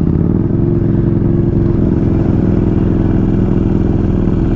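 Buell Lightning XB12SCG's air-cooled V-twin engine running, rising slightly in pitch at the start and then holding a steady speed.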